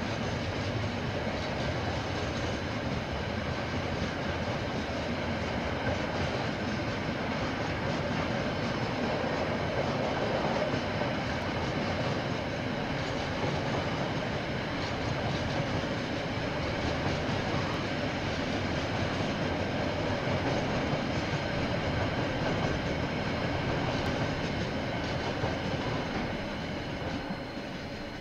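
KiwiRail train rolling past on the line, a steady rumble and clatter of wheels on rails that holds level and then begins to fade near the end.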